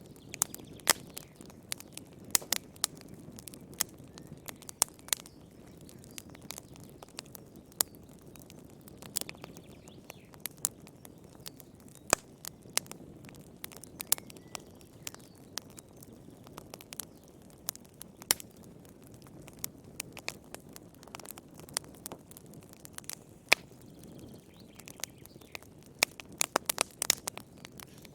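Wood fire crackling in a fireplace: irregular sharp pops and snaps over a soft, steady low rush of flame, with a quick run of pops near the end.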